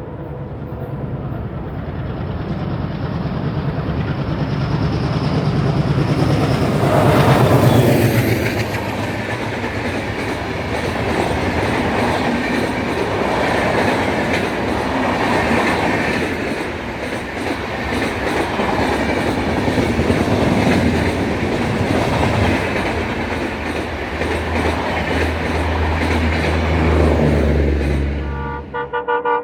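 Indian Railways WDG3A ALCO diesel locomotive passing at speed: its engine sound builds as it approaches and is loudest about seven seconds in. Its coaches follow with a long run of rhythmic wheel clatter over the rail joints, which cuts off suddenly near the end.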